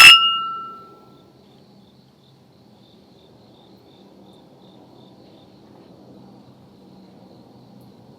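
A single sharp clink of a hard object, a metal or glass piece struck or set down, ringing with a clear tone that fades within about a second. Afterwards crickets chirp faintly in a steady, even rhythm.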